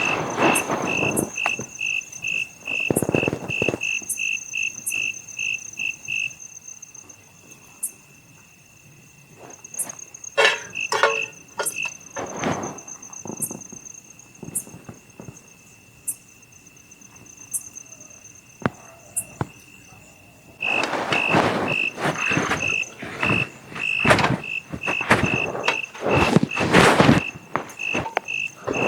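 Night insects chirping: a high, even chirp about three times a second that stops about six seconds in and comes back after about twenty seconds, over a steady thinner trill. Short crackles and knocks come and go throughout.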